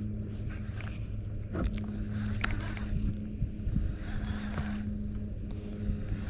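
Boat motor humming steadily, with a few sharp clicks over it.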